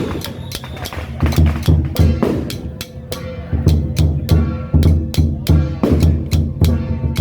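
Procession percussion of heavy bass drum and sharp cymbal or snare strikes beating a fast, even rhythm, with a few faint held tones over it. It eases in loudness around three seconds in, then builds back up.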